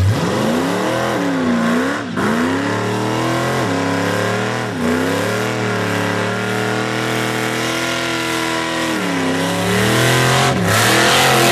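Supercharged 440 big-block V8 in a hearse revving hard during a burnout, over the noise of the spinning rear tyres. The engine note drops and climbs again about three times, then gets louder near the end.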